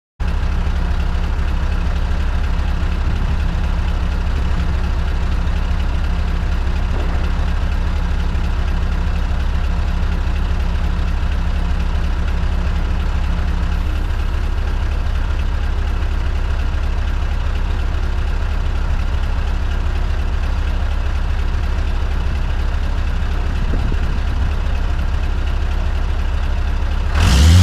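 Scania V8 truck engine running steadily with an even low drone. Near the end a brief, louder burst cuts in.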